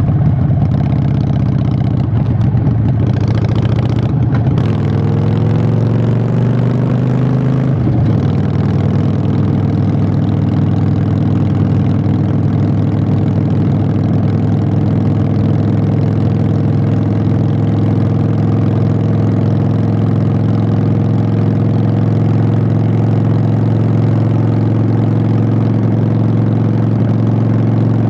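Harley-Davidson Sportster 883's V-twin running through Vance & Hines Short Shots exhaust while riding: the pitch rises as it accelerates for a few seconds, drops suddenly about eight seconds in at a gear change, then holds a steady cruise.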